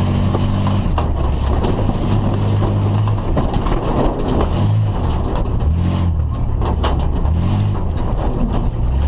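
A 1987 Ford F-150's straight-six engine revving hard, its pitch rising and dropping several times, with scattered knocks and rattles.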